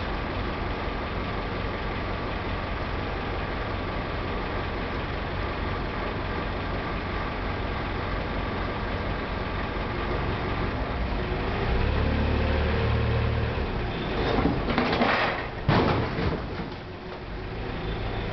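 Forklift engine running steadily, louder for a stretch about twelve seconds in, then a loud crash of a Ford Escort falling off the raised forks onto the ground, with a sharp hit about sixteen seconds in.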